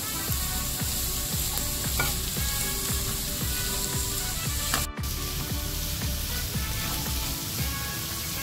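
Chicken strips and diced vegetables sizzling in a hot oiled pan as they are stirred and tossed with a spatula. The sound cuts out for an instant about five seconds in.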